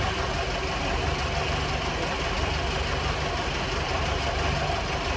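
Engine running steadily at an even speed with a fast, even beat, as a tractor belt-drives the seized engine of an old baler to try to start it.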